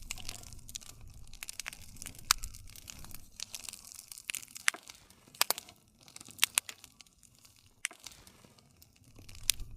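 Wood campfire crackling, with sharp pops and snaps every second or so over a soft hiss and a low rumble of the flames.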